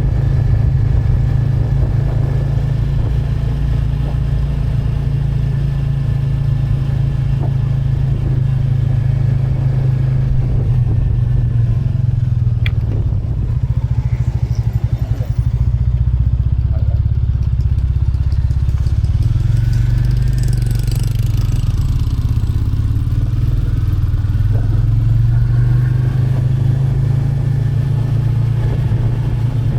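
Royal Enfield Classic 350's single-cylinder engine running on the move, a steady low thump that eases off and drops in pitch for a few seconds about halfway through before picking up again.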